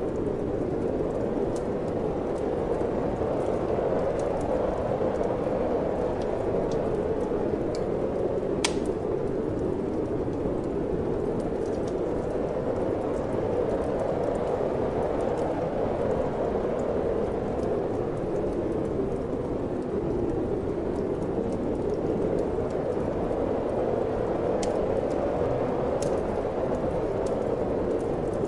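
Steady wind rushing with a wood fire crackling over it: scattered sharp pops, one louder pop about nine seconds in.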